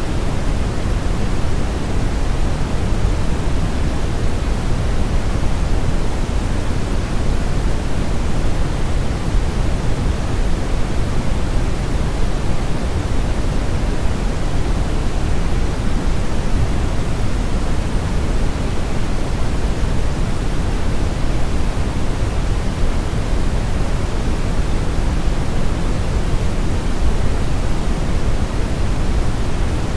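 Brown noise: a steady, even hiss-rumble with most of its energy in the low end, like a strong river current or wind, without any change.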